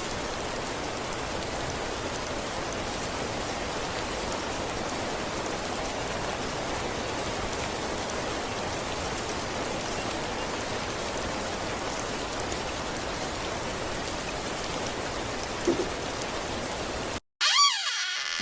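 Heavy rain pouring down in a steady, dense hiss of drops. It cuts off suddenly near the end, followed by a brief swooping tone.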